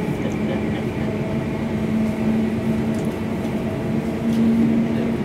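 Cabin running noise of a Class 350 Desiro electric multiple unit under way: a steady rumble with a constant low hum that swells slightly about four seconds in.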